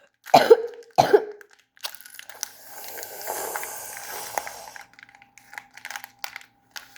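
A person coughs twice in the first second or so, then soft plastic rustling and light clicks follow as small plastic building pieces are handled.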